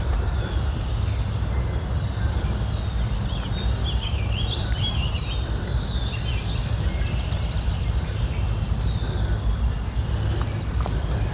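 Wild birds singing, with a few high warbling and chirping phrases about two seconds in and again near the end, over a steady low rumble.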